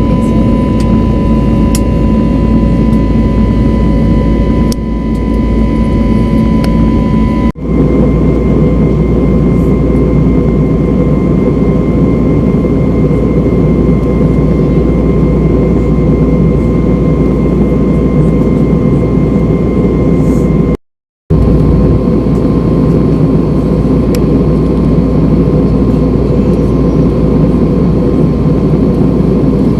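Jet airliner heard from inside the cabin: a steady, loud engine drone with a high whine running through it. It changes abruptly about seven seconds in and drops out for a moment around twenty seconds in, where the footage is cut.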